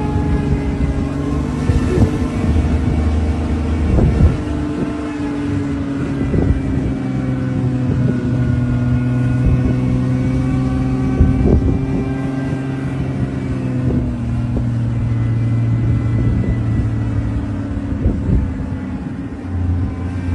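An engine running steadily, its pitch drifting slightly up and down, with a few short knocks.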